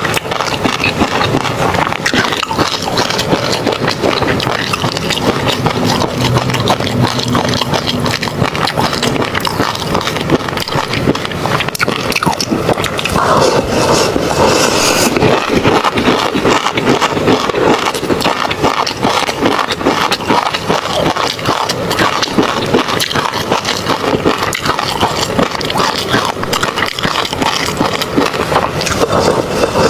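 Close-miked ASMR eating: continuous chewing with a dense run of small wet clicks and pops, from a mouthful of tobiko (flying fish roe).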